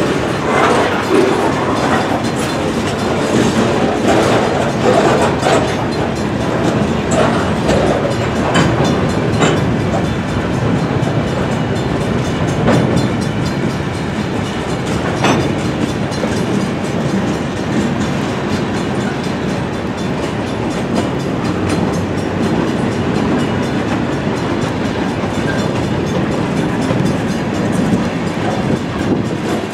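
A freight train's cars rolling past close by: a steady rumble of steel wheels on rail, with the wheels clacking over the rail joints.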